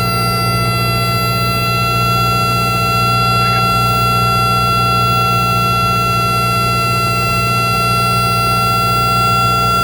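Steady drone of a Cessna 172's engine and propeller from the cabin, with a continuous high-pitched steady tone held on top.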